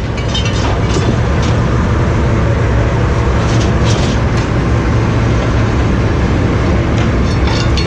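A motor vehicle engine running steadily, with a low drone and a few short clanks or rattles about a second in and again in the middle.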